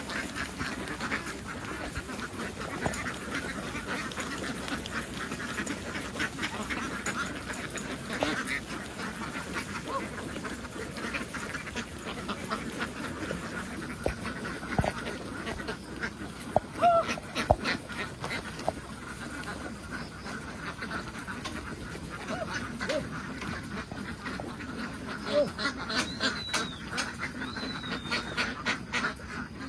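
A large flock of domestic ducks quacking, many birds calling over one another in a dense, unbroken chatter, a little louder near the end.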